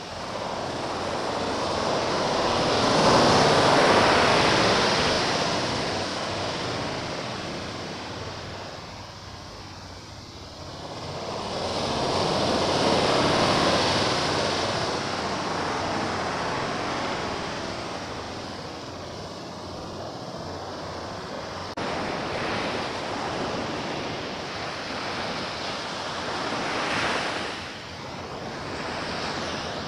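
Sea waves breaking and washing up the shore, surging loud about three seconds in and again about twelve seconds in, then easing off between breakers.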